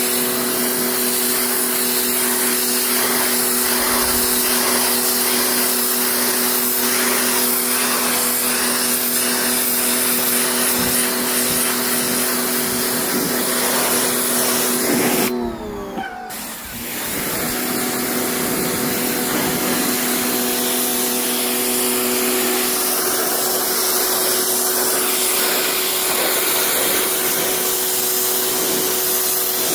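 Electric pressure washer running steadily: a motor whine under the hiss of water spraying onto car upholstery. About halfway through the spray stops and the motor winds down briefly, then starts up again and runs on.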